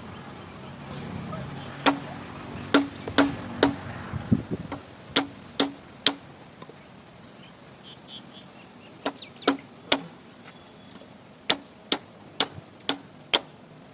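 Repeated sharp strikes of a hand tool hitting something hard, in uneven runs of three to five blows with a pause of about three seconds in the middle. Some blows have a short low ring.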